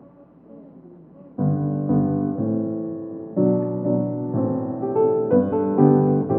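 Faint room murmur, then about a second and a half in a piano starts the offertory music, playing a slow run of held chords.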